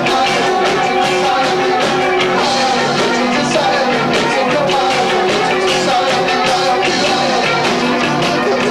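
Live rock band with two drummers playing loud and fast, recorded through a 1990s camcorder's built-in microphone, so the sound is distorted and low-fidelity.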